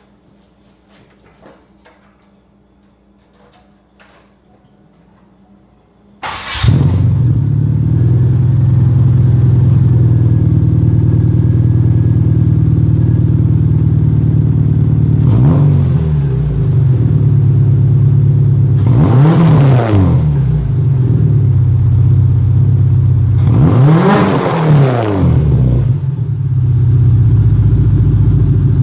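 2001 Subaru Forester S flat-four engine cold-started through a 3.5-inch custom exhaust that is almost straight-piped. After a few faint clicks it catches about six seconds in and idles loud and steady, with one short throttle blip and then two bigger revs that rise and fall back to idle.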